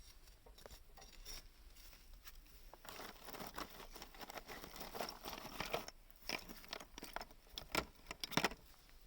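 Small wood fire in a homemade drink-can secondary-combustion stove, giving irregular crackles and clicks that come thicker after the first few seconds.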